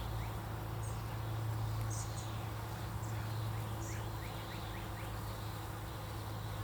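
Steady hum of honey bees around an opened hive, with small birds chirping now and then over it.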